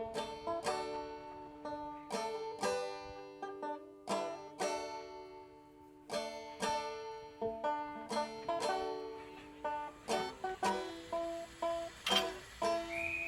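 Instrumental music: a banjo picking a lively tune over sustained synthesizer chords.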